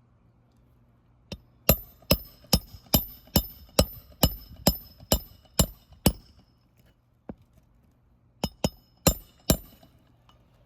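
Hand hammer driving roofing nails into an asphalt shingle, a steady run of about eleven ringing metallic blows at roughly two a second, then a short pause and four or five more blows.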